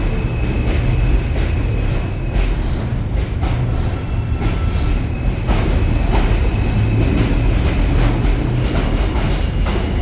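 New York City subway train (J line) running on elevated track: a loud steady rumble with rail clicks and thin, brief wheel squeals.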